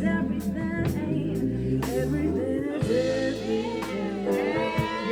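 Live band playing a funky jam: a drum kit keeps a steady beat under a bass line, with a voice singing over it.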